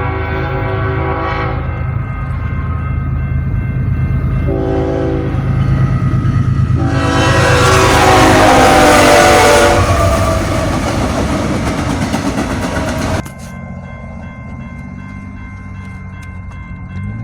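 Locomotive horn sounding over the low rumble of a passing train: a blast at the start, a short blast about five seconds in, then a long, loud blast whose pitch drops as the train goes by. About thirteen seconds in, the sound cuts off abruptly to a quieter steady hum.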